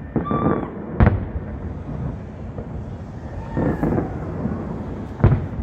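Fireworks going off: two sharp bangs about four seconds apart, with voices calling out between them.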